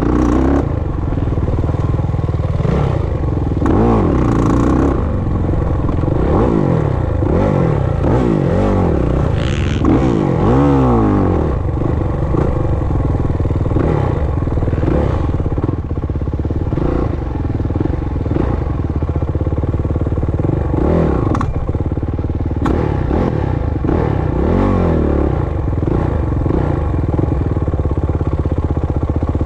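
Off-road motorcycle engine revving up and falling back again and again as the rider works the throttle and gears around a dirt track, with occasional sharp knocks and rattles.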